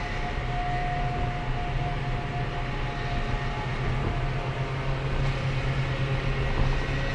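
Race car engine running at a steady, unchanging speed, heard from inside the car over road noise.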